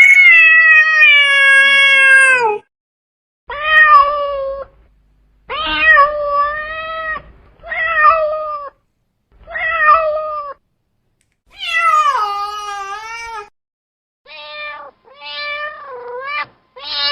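Domestic cat meowing repeatedly, about eight meows with short gaps between. It opens with one long drawn-out meow, and later comes a meow that falls in pitch at its end.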